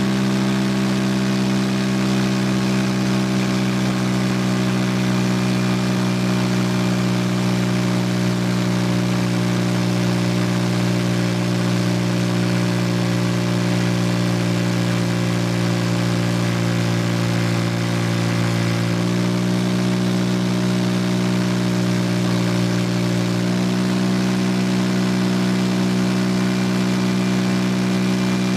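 Vespa Sprint 150 scooter's single-cylinder engine idling steadily. Its pitch dips slightly about two-thirds of the way through and comes back up a few seconds later.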